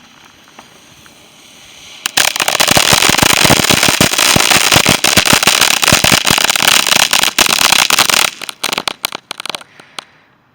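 A faint rising hiss, then a firework going off in a dense, rapid crackle of bangs for about six seconds, thinning out into scattered pops and stopping shortly before the end.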